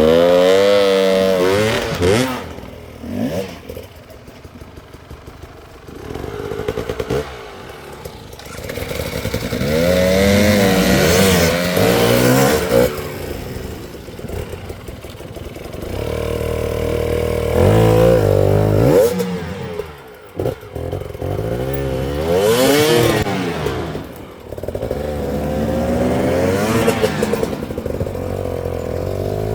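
Enduro dirt bike engines revving in repeated bursts, the throttle opened and snapped shut again and again as the bikes work up through tight switchbacks, dropping to a lower run between bursts.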